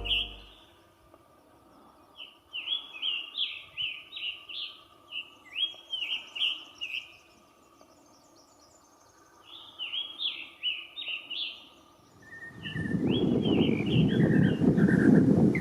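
A bird calling in three runs of quick chirping notes, each run lasting a few seconds with short pauses between. Near the end a louder, low rushing noise comes up under further chirps.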